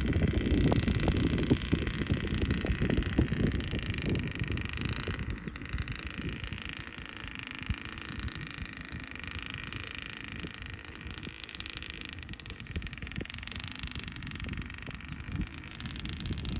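Irregular low rumble and rattling with wind on the microphone from a dirt bike moving over rough ground. It is louder for the first five seconds or so, then drops off with no clear engine note.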